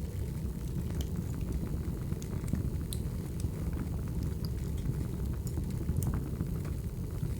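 Firewood burning: a steady low rumble of the fire with scattered sharp crackles and pops throughout.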